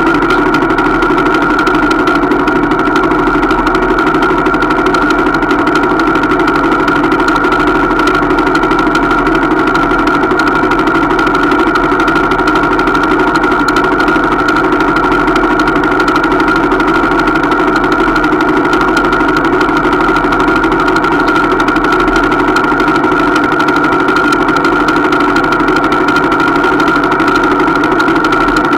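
Small trail motorcycle engine idling steadily, its note unchanging throughout.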